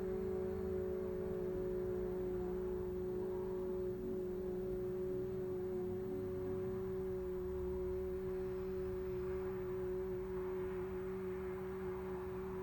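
A group of voices holding the vowel "oo" ("U") together in one long, steady note: a sound-therapy breathing exercise in which each vowel is sung for as long as possible.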